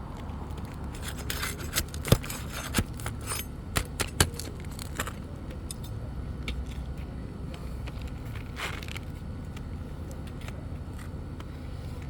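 A crowbar scraping and clicking against old asphalt shingles as they are pried up, with several sharp clicks and scrapes in the first few seconds and another scrape near the end. The shingle tears off with little force, a sign that the old shingles are brittle.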